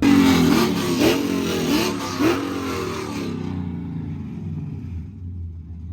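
Car engine revving hard as a car launches, with about four quick rising revs in the first two and a half seconds. The sound then settles into a steadier, quieter run.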